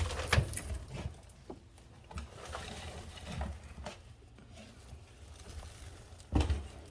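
Faint rustling and scattered light clicks of debris being picked out and handled, with one louder knock about six seconds in.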